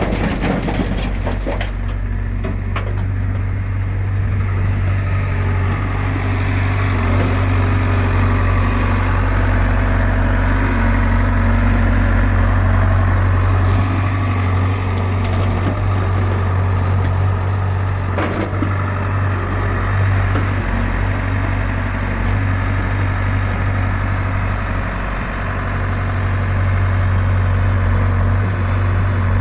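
Hyundai 85 excavator's diesel engine running steadily, with a few brief knocks in the first second and another about two-thirds of the way through.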